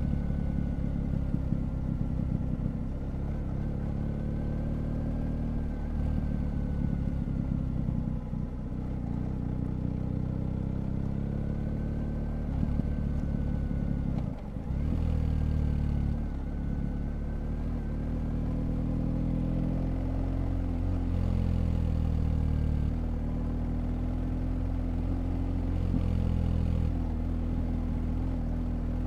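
BMW GS Adventure motorcycle's flat-twin engine running under a rider's throttle on a winding road. Its pitch rises and falls with speed changes, with a brief drop about halfway through, over steady wind and tyre noise.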